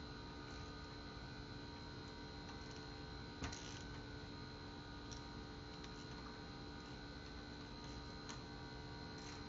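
Low steady hum with a few faint clicks and one slightly louder knock about three and a half seconds in, as the Fiat Evo engine's crankshaft gear is turned slowly by hand with the timing belt off. No grinding or bearing noise comes from it: the noise is not in the engine and is put down to the worn water pump.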